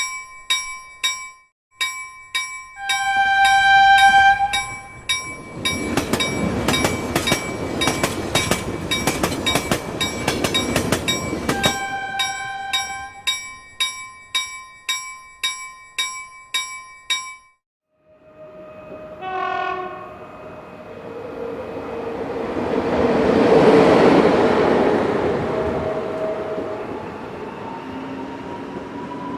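Railway level-crossing bell ringing rapidly and steadily while a train sounds its horn twice and rumbles past. After a brief break, another train sounds its horn and passes, its rumble swelling to a peak and then fading.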